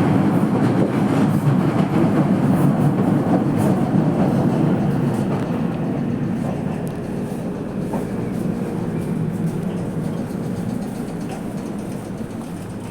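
Running noise heard inside a Toei Mita Line subway car: a steady rumble from the wheels and motors that grows gradually quieter after about five seconds, with a faint steady tone coming through as it fades.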